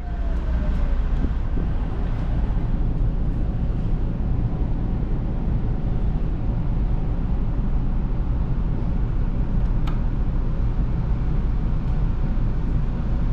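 Steady low rumble inside a commuter train carriage as it stands or creeps at a small station. A faint falling whine fades in the first second, and there is a single sharp click about ten seconds in.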